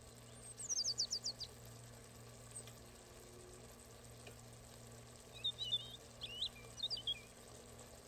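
Songbird chirping: a quick run of about six sharply falling chirps about half a second in, then a cluster of warbling chirps between five and seven seconds in, over a faint steady hum.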